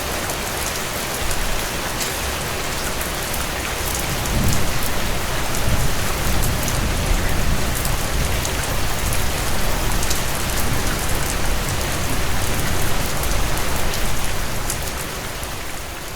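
Heavy rain drumming on a tin roof, a dense steady patter with sharp drop ticks. About four seconds in a low thunder rumble builds underneath and lingers, easing near the end.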